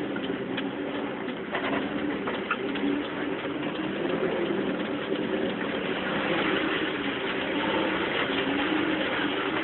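Truck engine running steadily, a continuous low drone with no break.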